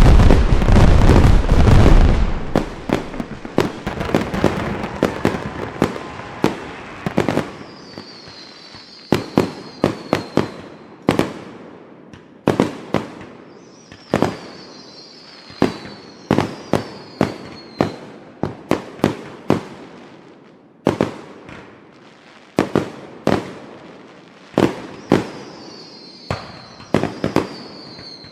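Fireworks going off: a dense, loud barrage of bangs for about the first two seconds, then a long string of separate sharp bangs with echoing tails. Three times, high whistles fall in pitch between the bangs.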